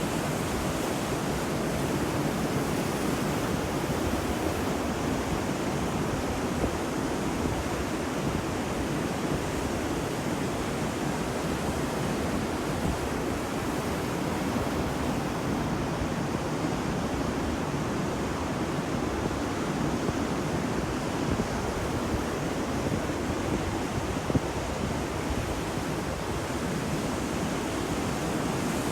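Ocean waves washing on a beach: a steady, even roar of surf with no distinct breaks.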